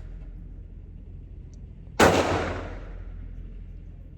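A single shot from a 9mm Glock 19 pistol about two seconds in, fading away over roughly a second, over a steady low hum.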